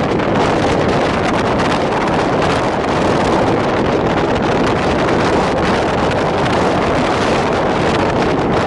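Steady wind rushing over the microphone aboard a moving DEMU (diesel-electric multiple unit) train, mixed with the train's running noise, with no breaks or distinct knocks.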